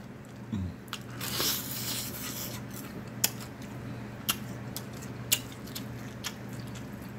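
Biting into a crispy fried egg roll, with a short crunch about a second in, then chewing with sharp mouth clicks and smacks about once a second.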